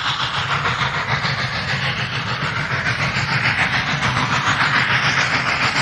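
A train running on the rails: a steady, rhythmic clatter over a low engine hum.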